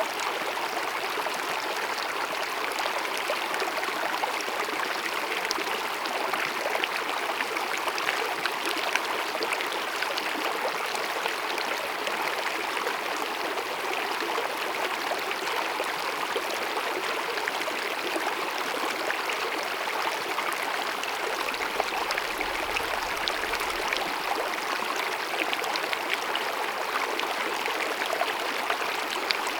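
Small mountain meadow stream babbling steadily over rocks, a dense, even rush of water with fine splashes and gurgles.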